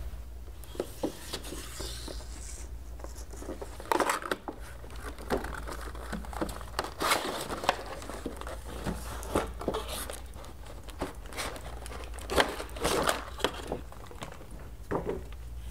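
Plastic toy packaging crinkling and rustling as it is handled and opened, with scattered clicks and light knocks of plastic parts.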